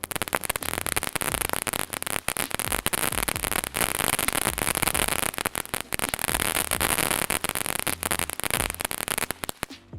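Freedom Star firework fountain going off, a dense rapid crackling of many small pops over a steady hiss. It cuts off suddenly near the end.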